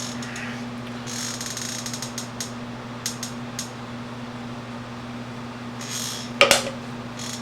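A beer being opened: scattered handling and creaking, then a short hiss and a sharp crack about six and a half seconds in, over a steady low hum.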